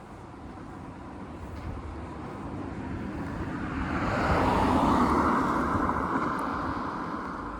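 A vehicle passing close by: a rushing tyre-and-engine noise that swells to a peak about halfway through and then fades away.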